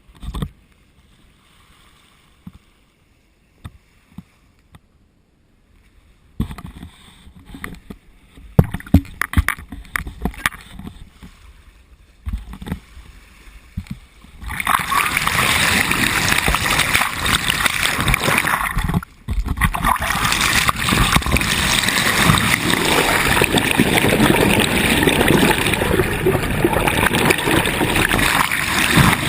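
Water splashing and rushing along a sailboat's hull. It starts quietly with scattered splashes and knocks, then turns to a loud, steady rush about halfway through.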